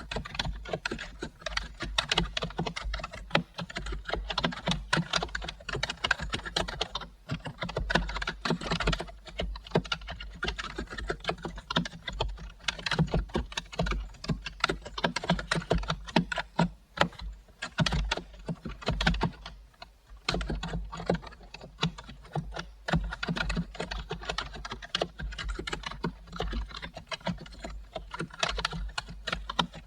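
Continuous typing on a computer keyboard, a rapid run of key clicks with brief pauses, around 7 and 20 seconds in.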